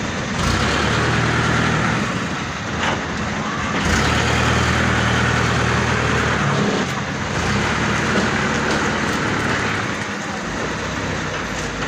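Truck engines running. The low steady hum shifts in pitch about two and a half and six and a half seconds in, as the trucks move.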